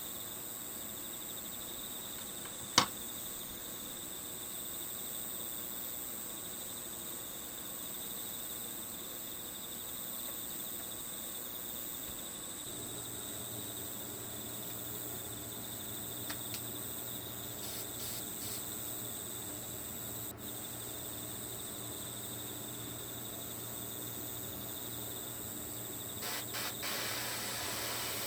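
Crickets chirring steadily as a nature-sound background, with one sharp click about three seconds in and a few light clicks near the end.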